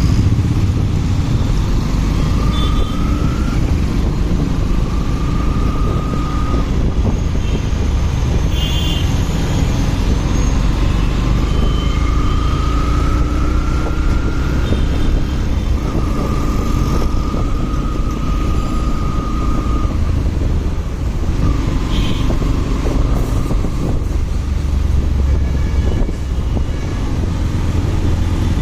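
Motorcycle riding in traffic: a steady low engine and road rumble, with a higher held tone coming and going several times.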